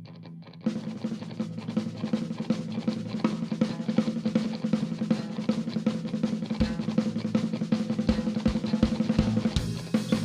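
Live rock band playing an instrumental intro: a quiet, evenly picked guitar part gives way less than a second in to the full band, with drum kit and loud guitars. Heavy bass drum hits come in over the last few seconds.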